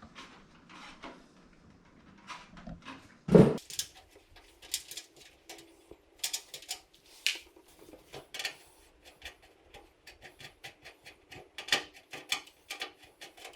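Irregular clicks and taps of computer parts being handled and fitted, with one louder thump about three seconds in.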